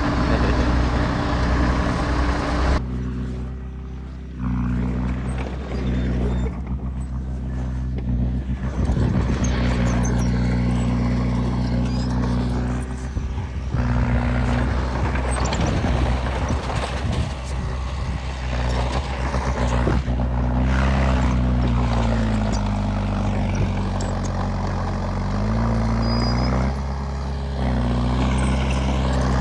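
Heavy diesel engine of earthmoving machinery running under working load, its pitch rising and falling as it revs up and down.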